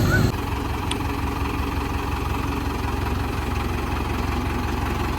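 Mahindra Arjun Novo tractor's diesel engine running steadily at idle. A louder sound cuts off abruptly just after the start.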